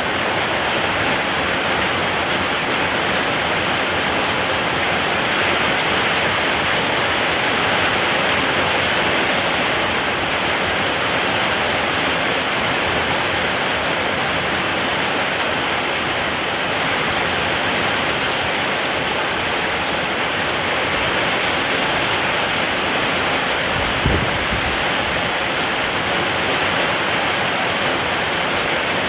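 Steady, dense rainfall hissing evenly throughout, with a brief low thud near the end.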